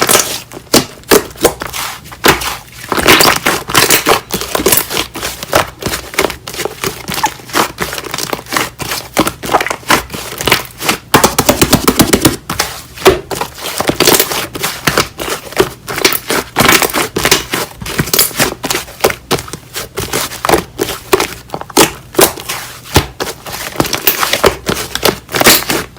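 Hands squishing, pressing and stretching slime, giving an irregular stream of sticky crackles and small air-bubble pops, with a run of rapid clicking crackles near the middle.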